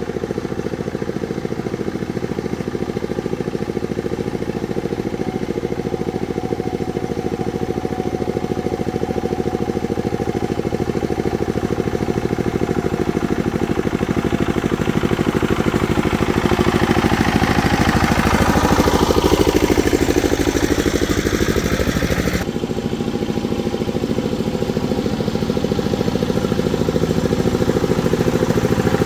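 An engine running steadily, with a sweep in its higher tones about two-thirds of the way through and an abrupt change in sound shortly after.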